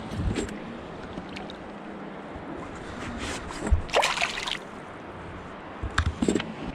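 A fish splashing into the river as it is released over the side of a small boat, a brief splash about four seconds in, with a few knocks and bumps against the boat before and after.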